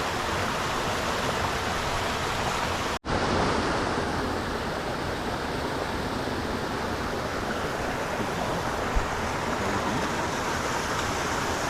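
Steady rushing of flowing water, like a forest stream or waterfall, as an even hiss with no rhythm. It cuts out for an instant about three seconds in, then carries on.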